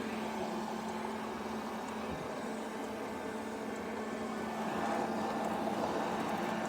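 Robot vacuum running: a steady motor and brush whir with a constant low hum, growing slightly louder about five seconds in.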